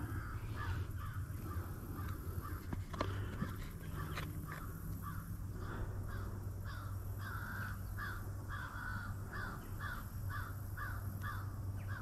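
A bird calling in a long series of short repeated calls, settling into about two or three calls a second, over a steady low hum.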